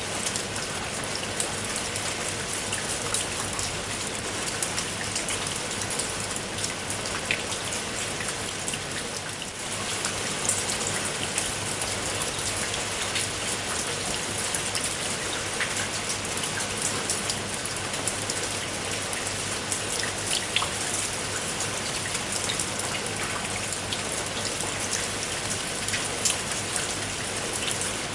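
Steady rain falling, a continuous hiss dotted with many sharp individual drops hitting a surface.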